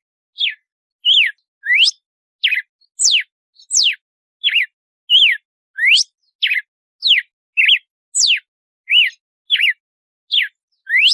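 Red-cowled cardinal (galo-de-campina) singing its 'açoite' song: a steady string of clear whistled notes, about one and a half a second, alternating quick upward and downward sweeps.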